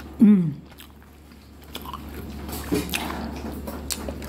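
A person eating roast fish and bammy: quiet chewing and small mouth clicks, with one short rising-and-falling hum of the voice near the start, the loudest sound.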